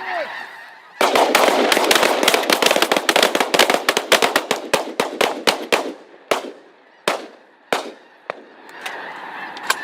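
A volley of shotgun fire from a group of hunters shooting at a flock of snow geese. Many shots overlap in a rapid barrage starting about a second in, then thin out to single shots about a second apart near the end.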